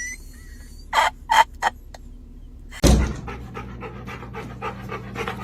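Three short, sharp animal calls about a second in. Then, from about three seconds in, a dog panting quickly and steadily over a low steady hum.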